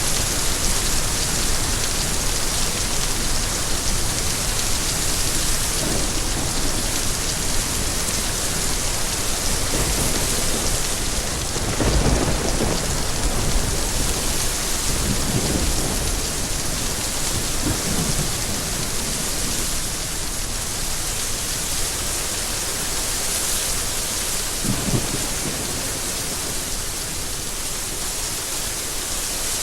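Steady heavy rain, an even hiss of falling drops, with several low rumbles rising out of it, the strongest about twelve seconds in.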